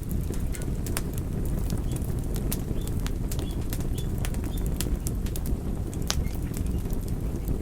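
Wood fire burning with a steady low rush of flame and irregular sharp crackles and pops from the burning wood. A few faint short high squeaks come a few seconds in.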